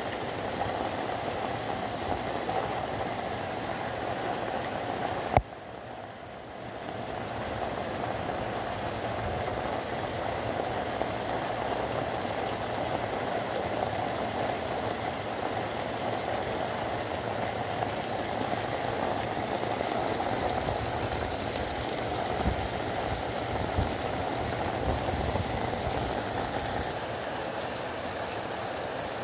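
Heavy rain pouring down and floodwater rushing through a flooded street, a steady hiss. A single sharp click about five seconds in, after which the sound dips for a couple of seconds before returning.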